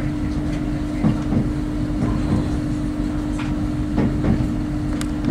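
Inside a moving diesel passenger train: a steady engine hum and running rumble, with a few paired knocks as the wheels pass over rail joints.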